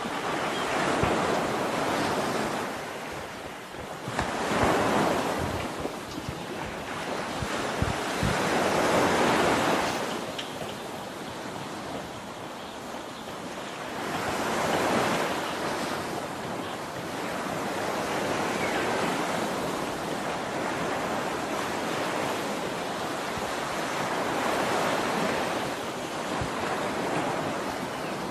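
Rushing water with wind gusting on the microphone: a steady roar of noise that swells and eases every few seconds, with low buffeting thuds in the first few seconds.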